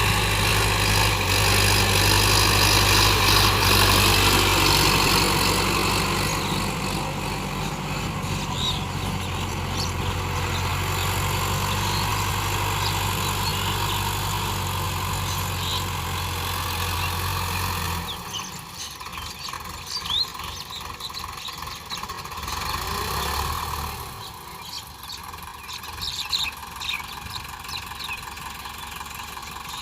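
Tractor engine running steadily with a low hum, then dropping away about two-thirds of the way through, leaving quieter outdoor sound.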